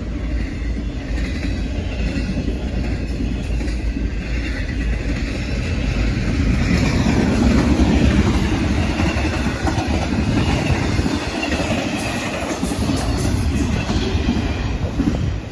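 Double-stack freight cars rolling past, a steady loud rumble with the wheels clicking over the track, swelling about halfway through before easing off.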